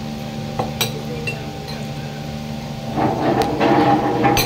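Cutlery and dishes clinking on a restaurant table, a few separate clinks in the first half, then a louder stretch of clattering and noise near the end, over a steady low background hum.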